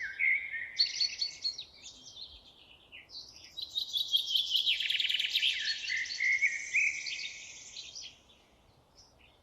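Songbirds singing: two rapid, trilling song phrases, a short one at the start and a longer one of about five seconds, fading out about eight seconds in.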